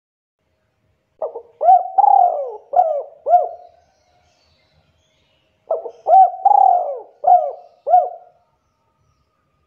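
Spotted dove cooing: two phrases a few seconds apart, each a run of about five hooked, rolling coos. It is a lure call meant to get other doves to answer.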